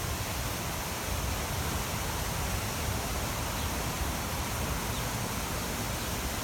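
Steady rushing noise with an uneven low rumble underneath, and no distinct events.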